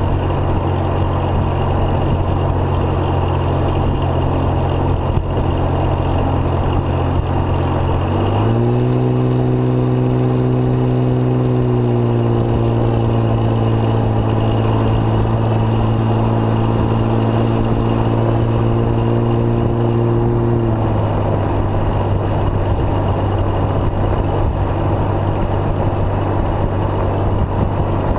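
2005 Jeep Grand Cherokee engine heard through its Thrush welded muffler, a steady low exhaust drone. About eight seconds in the pitch steps up and holds steady for about twelve seconds, then drops back to the lower drone.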